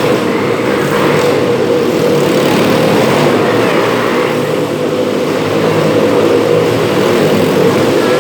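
Several motorcycle engines running together at steady high revs as the bikes circle inside a steel-mesh globe of death, a loud continuous drone with no let-up.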